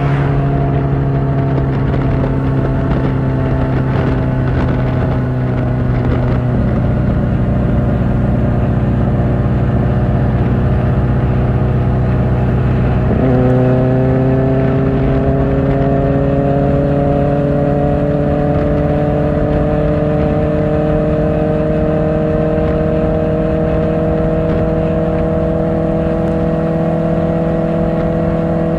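Kawasaki Ninja ZX-4R inline-four engine through an Akrapovic exhaust, running at steady high revs that sag slightly. About halfway through the revs drop suddenly with an upshift, then climb slowly as the bike accelerates.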